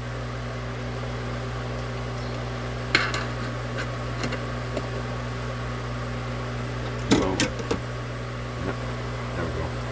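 Steady electrical mains hum. A sharp click comes about three seconds in, and a short cluster of knocks about seven seconds in.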